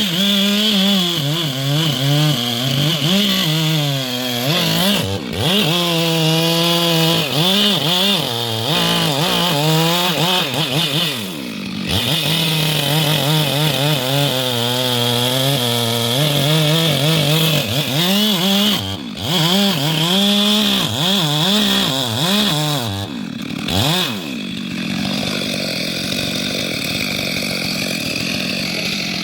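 Chainsaw cutting a big tree, its engine revving up and dropping back again and again as it works through the wood, with short easings of the throttle.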